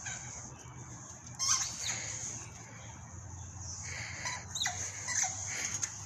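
Birds calling: a few short calls, one about a second and a half in and several more near the end, some dropping quickly in pitch, over a steady high hiss.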